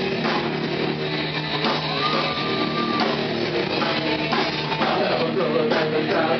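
Rock band playing live: guitar, drum kit and singing together, with a sliding note about two seconds in.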